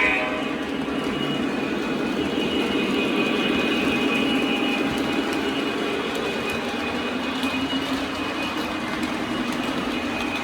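Lionel O-scale Kansas City Southern model locomotive running steadily on its track, its onboard sound system playing a locomotive engine drone over the rumble of the wheels, with the tail of a horn blast right at the start.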